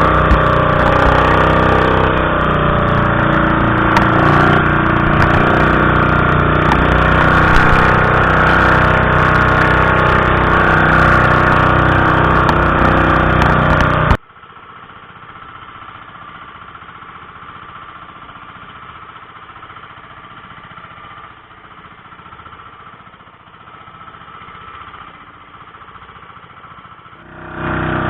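Small boat engine running steadily and loudly. About halfway through, the sound drops suddenly to a much quieter engine hum, and it comes back loud just before the end.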